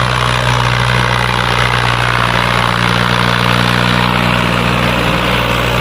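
Fiat 480 tractor's diesel engine running at a steady speed, a constant low drone with a steady hiss above it.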